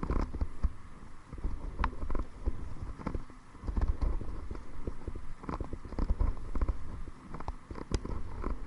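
Kayak paddling: irregular knocks and splashes as the paddle works the water and strikes the hull, over wind rumbling on the microphone.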